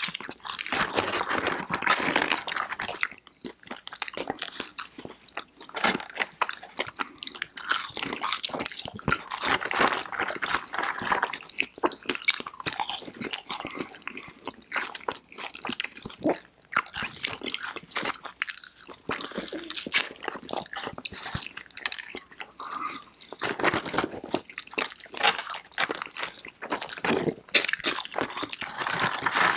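Close-miked chewing and crunching of breaded fried chicken fingers and fries by two people eating, with irregular crisp crackles and wet mouth sounds.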